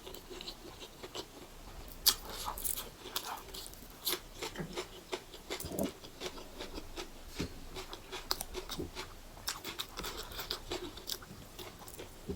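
Close-up eating sounds: a person chewing and smacking on a mouthful of buff chowmein noodles eaten by hand, many short irregular wet clicks, the sharpest about two seconds in.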